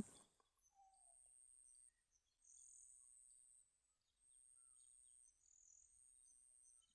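Near silence: the narration's 4-second thinking pause, with only a faint high-pitched trill in the background that repeats about once a second.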